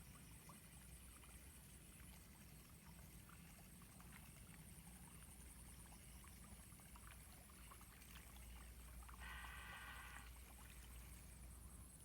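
Near silence: faint outdoor background with scattered light clicks, and one brief high tone lasting about a second near the end.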